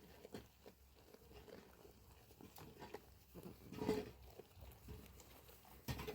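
A goat bleating once, faintly, about four seconds in, amid light scattered knocks and rustles.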